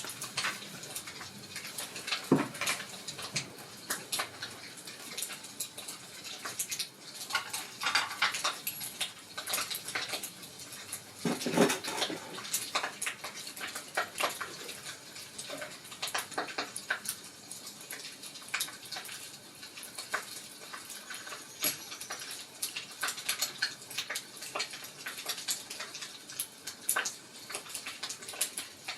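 Wood fire crackling: irregular sharp snaps over a steady low hiss, with two louder, fuller pops about two and eleven seconds in.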